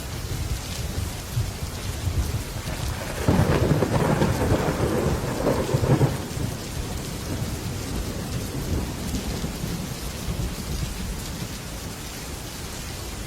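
Heavy rain falling steadily on a metal roof. About three seconds in, a crackling roll of thunder rises over the rain, lasts about three seconds, and then fades back into the rain.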